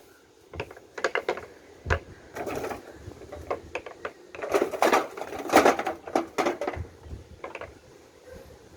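Small snooker balls rolling down a handmade wooden track, clicking and knocking against the wood and each other in an irregular series of clacks. The busiest, loudest clatter comes a little past halfway, with scattered single knocks before and after.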